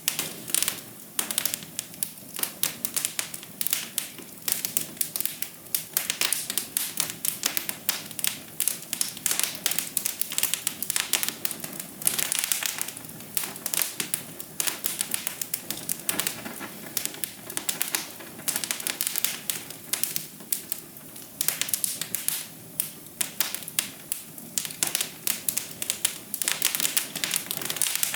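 Wood fire crackling in a fireplace: a dense, irregular stream of sharp pops and snaps over a soft hiss of flame.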